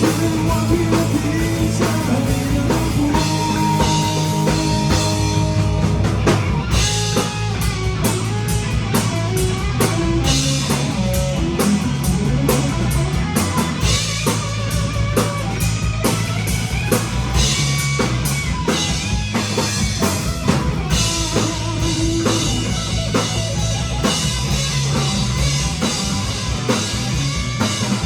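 Rock band playing live without vocals: drum kit, guitar and bass together.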